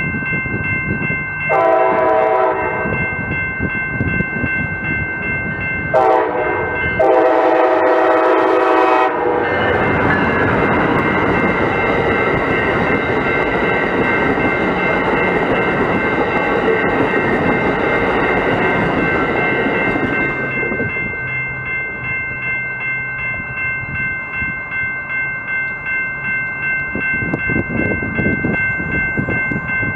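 Train horn sounding three blasts, the third the longest. The train then passes with loud wheel and rail noise for about ten seconds, fading to a lower rumble. A steady high ringing tone runs underneath throughout.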